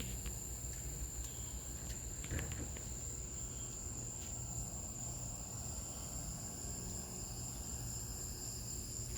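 Steady high-pitched insect trill over a low background hum, with a few faint knocks.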